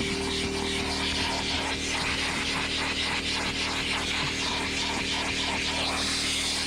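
Vacuum cleaner running steadily with its motor humming, as the car interior's surfaces are vacuumed.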